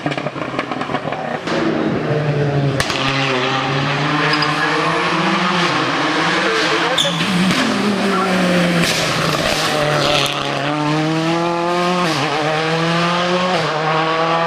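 Race car engine at full throttle, rising in pitch through each gear and dropping back at every shift, several upshifts in quick succession near the end.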